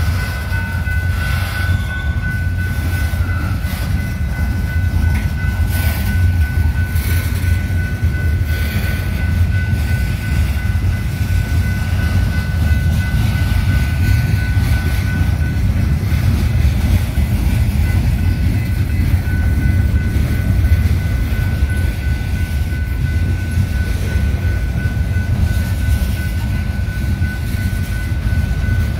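Train rolling past with a steady heavy low rumble, a few knocks from the wheels in the first seconds, and a thin high whine held over it that drops out briefly past the middle.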